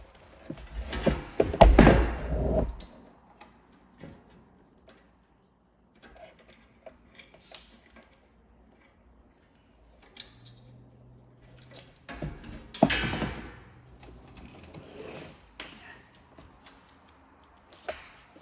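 Knocking and clattering of hard objects being handled: two loud bursts of dense knocks, with scattered small clicks and taps between them.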